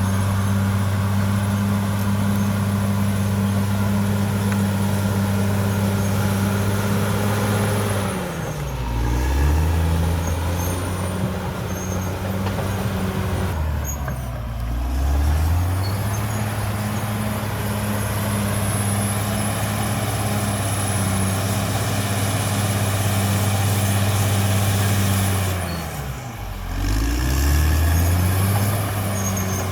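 CAT D6R XL bulldozer's diesel engine running at high revs, twice dropping sharply to a low note for a few seconds and then climbing back up.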